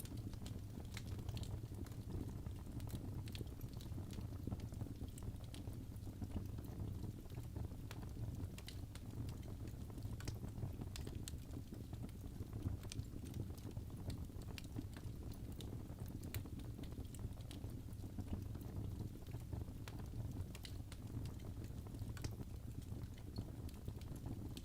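Birchwood logs burning in a fireplace: a steady low rumble of flames with frequent small, sharp crackles and pops scattered throughout.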